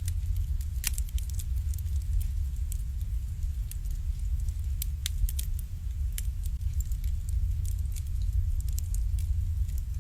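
Wood fire burning in an irori, a Japanese sunken hearth, with frequent sharp, irregular crackles and pops over a steady low rumble.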